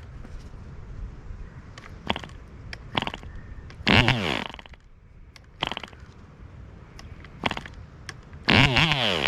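A 2.5 cc MARZ (MAP3) model airplane diesel engine being flicked over by hand. It pops a few times, fires briefly about four seconds in and dies away with a falling pitch, then catches near the end and runs unevenly with a wavering pitch. These easy-firing, stuttering first runs come from an over-compressed engine whose counter-piston was stuck down.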